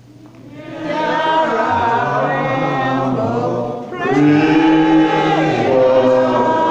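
Congregation singing the sung response to a prayer intercession, many voices together, in two phrases with a short break about four seconds in.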